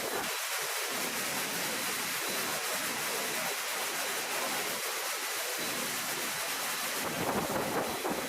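Steady hissing rush of noise, even throughout with no distinct events.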